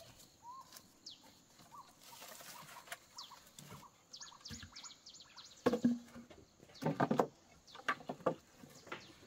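Small birds chirping in quick series of short high notes that slide down in pitch. A few louder short sounds come about six and seven seconds in.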